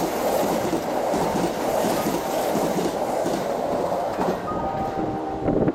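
Kintetsu limited express electric train passing through a station at speed without stopping: a loud rush of wheel and air noise with the wheels clattering over rail joints, easing off after about four seconds as the last car goes by.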